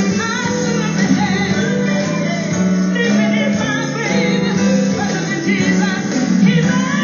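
Gospel song: voices singing over instrumental backing with a steady bass line.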